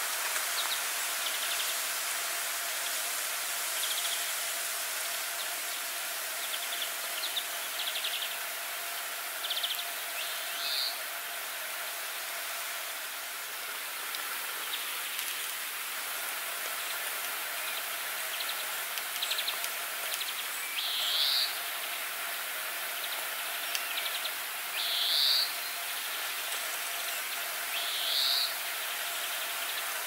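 Wild birds calling: scattered faint short high chirps and trills, and four louder short high calls that each rise slightly, one about a third of the way in and three in the last third, over a steady background hiss.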